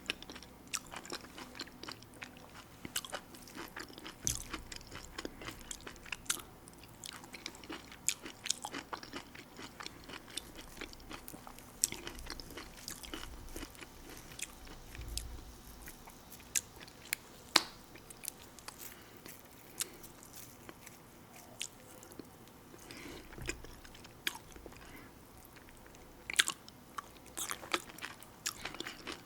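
Close-miked mouth sounds of a person eating: steady chewing with many small wet clicks and smacks, and now and then a louder bite or crunch.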